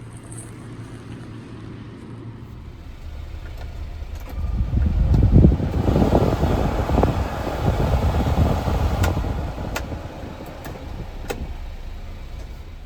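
A 1995 Honda Acty mini truck's small engine running with a low steady hum. About four and a half seconds in it gets much louder and rougher for several seconds, then eases back, with a few light clicks along the way.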